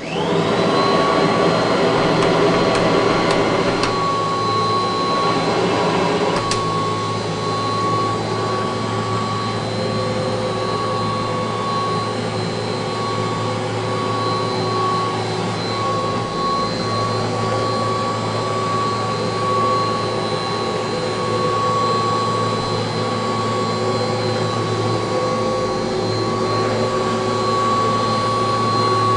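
1985 Kirby Heritage II upright vacuum cleaner switched on: the motor spins up within about half a second, then runs steadily with a high whine.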